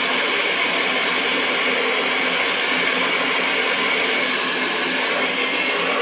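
Hair dryer running steadily: a continuous rush of blown air with a constant motor whine.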